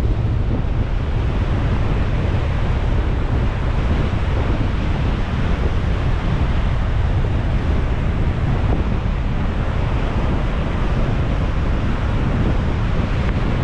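Strong storm wind from Hurricane Ida buffeting the microphone, with heavy surf beneath it. The wind is a steady, loud rumble with no letup.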